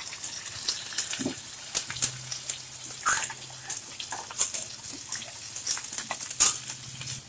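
Tomato purée hitting hot oil and fried onion-garlic-ginger paste in a steel kadhai, sizzling with many short, sharp crackles and pops.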